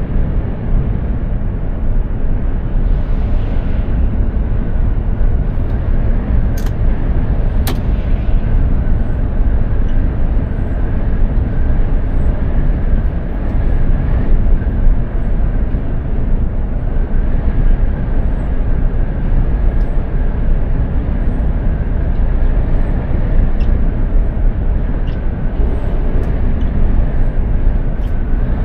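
Mercedes-Benz Actros heavy truck under way: a steady, loud drone of engine and road noise, with two brief clicks about a quarter of the way in.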